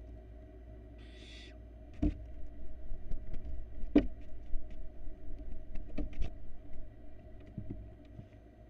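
Barn owl nestlings scrambling and pouncing on the wooden nest box floor: a run of knocks and thumps, the loudest about two and four seconds in. A short hissing call from an owlet comes about a second in.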